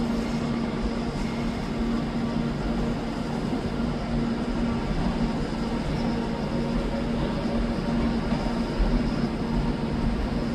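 A train running with a steady low hum over a constant rumble.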